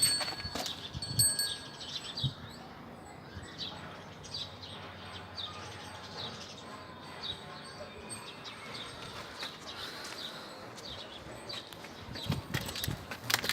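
Birds chirping, with many short falling calls repeated about once a second. A few knocks sound in the first couple of seconds.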